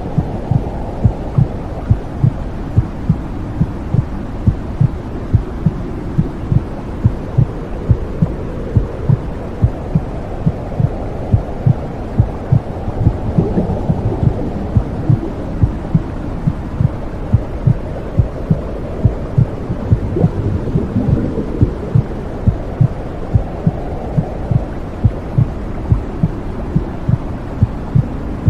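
Womb sound for babies: a steady, regular heartbeat thumping over a continuous low whooshing rush, with slow swells in the rush.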